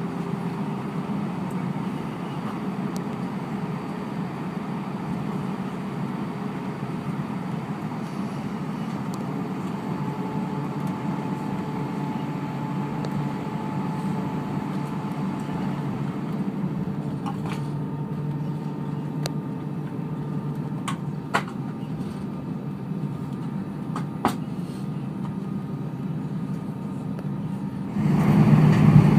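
Airbus A319 cabin noise from a window seat: the jet engines and air conditioning running with a steady hum and rush, a few faint clicks, and the noise growing markedly louder near the end.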